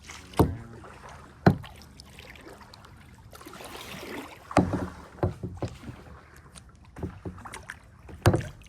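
Kayak paddling: a paddle dipping and splashing in the river, with several sharp knocks against the kayak at irregular intervals and a swell of water swishing about four seconds in.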